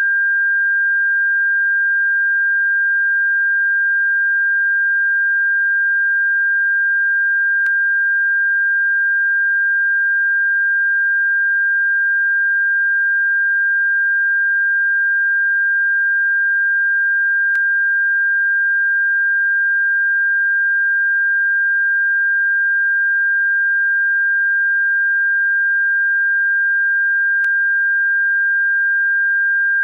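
Electronically generated pure sine tone held at one steady high pitch, played as a bird-repellent frequency. A faint click comes about every ten seconds, three times in all.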